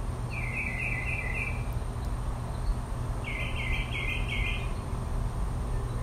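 A songbird singing two phrases of about five quick repeated notes each, the second about three seconds after the first, over a steady low rumble.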